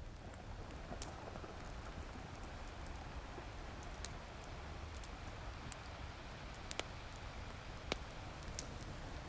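Wood fire crackling, with scattered sharp pops, the loudest about eight seconds in, over a steady rushing wash of ocean surf.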